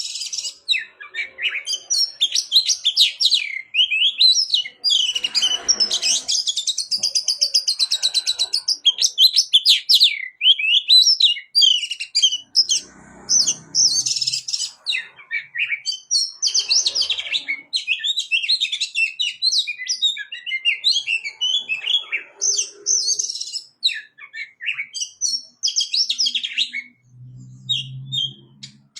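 A kept songbird singing a long, fast, varied chirping song, phrase after phrase with hardly a pause.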